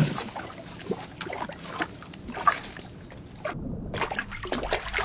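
River water splashing and sloshing in short, irregular strokes as a lioness and a buffalo struggle and swim in it.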